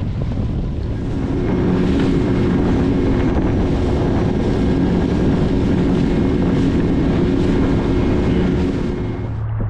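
Small fishing boat's motor running under way, a steady drone with wind buffeting the microphone. It grows louder about a second in and falls back just before the end.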